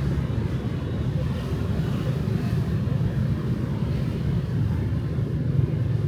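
Steady low rumble of city street traffic, motorbikes and cars, with no single vehicle standing out.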